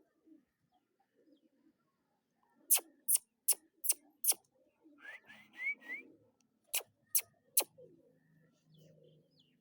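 Birds around a pigeon loft: a quick run of five sharp, brief calls, then three short rising chirps, then three more sharp calls, with faint low pigeon cooing between them.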